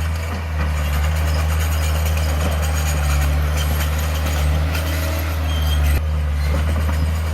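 Heavy construction machine's diesel engine running steadily with a low, even hum. The sound changes abruptly about six seconds in.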